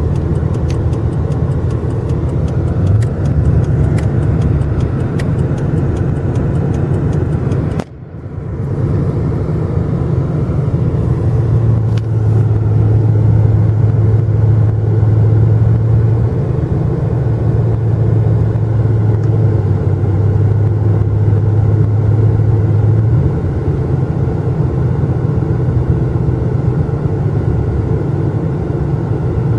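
Motor vehicle running steadily with a low rumble, cut off for a moment about eight seconds in and then continuing.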